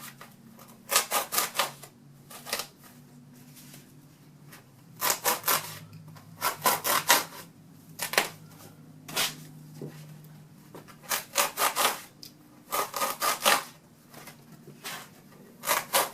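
A blade sawing through the foam of a pool noodle to cut V-shaped notches. It comes as short runs of quick rasping strokes, a few strokes at a time, about ten runs with pauses between.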